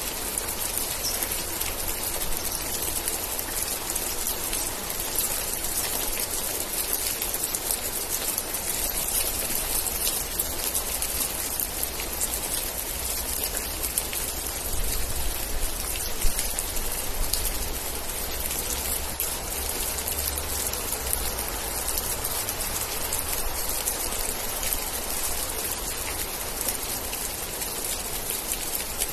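Steady rain: a dense, even patter of raindrops with a low rumble underneath.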